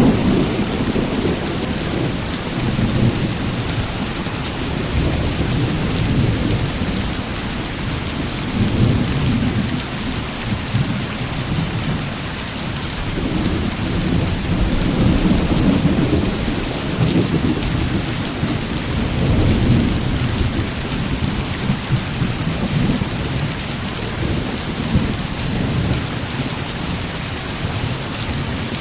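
Heavy rain falling steadily with low rolling thunder rumbling in waves underneath.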